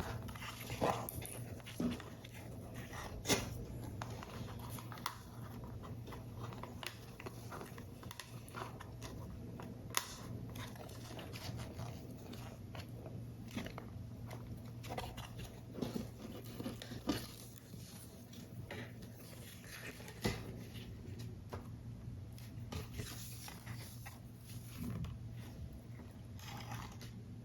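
Paper model parts being handled and pressed together: soft paper rustling with many scattered small taps and clicks, over a faint steady low hum.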